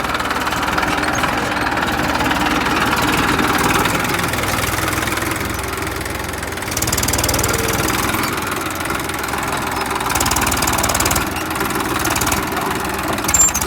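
Massey Ferguson 1035 tractor's three-cylinder diesel engine running with a steady clatter, swelling louder twice as the throttle is opened while the tractor works to pull itself out of a mud pit.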